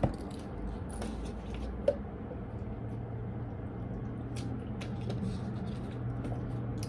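Oracle cards being handled quietly, giving a few soft, scattered clicks over a low steady hum.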